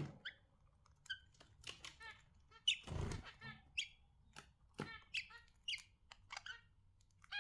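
Budgerigars chirping and chattering in short, quick calls, with scattered sharp clicks and a brief louder rustle about three seconds in.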